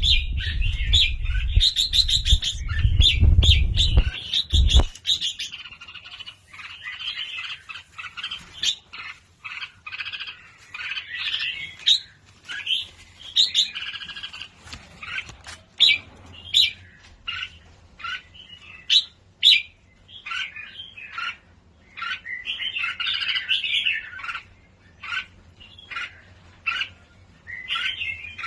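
Birds chirping and squawking in quick runs of short calls, with a low rumble under the first five seconds.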